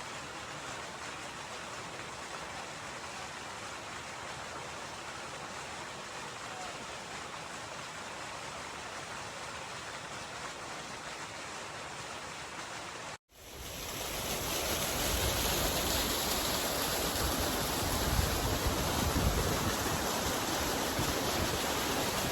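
Glacial meltwater stream rushing steadily over rocks. About 13 seconds in there is a sudden cut to a louder, closer rush of water with more low rumble.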